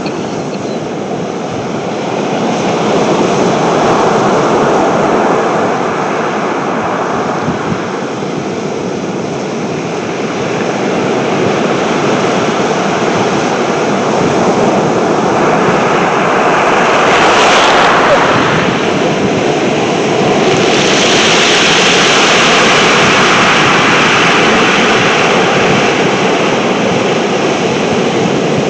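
Strong wind blowing across the microphone together with sea surf: a loud rushing noise that swells and eases, with a sharper surge a little past halfway.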